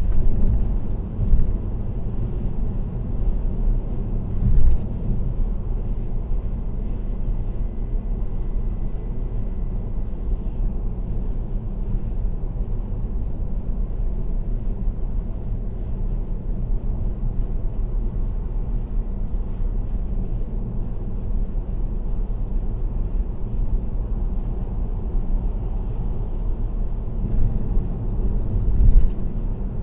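Car driving at expressway speed: steady low road and tyre rumble, with a few brief louder bumps a second in, about four seconds in, and twice near the end.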